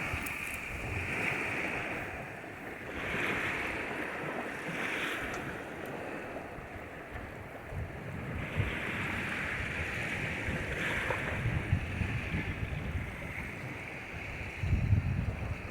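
Black Sea surf: waves breaking and washing up the shore in repeated swells every few seconds. Wind buffets the microphone with low rumbles, loudest near the end.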